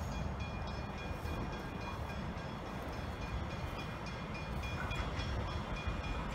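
Suburban electric train approaching from the distance, a steady rail rumble, with level crossing bells ringing on a repeating high tone.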